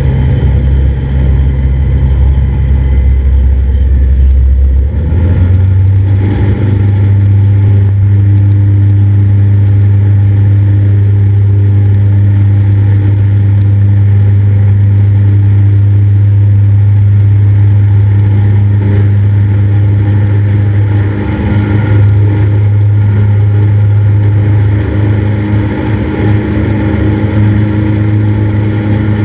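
Cessna 172's piston engine and propeller running loudly and steadily. Its pitch steps up about five seconds in, with more power, then holds steady.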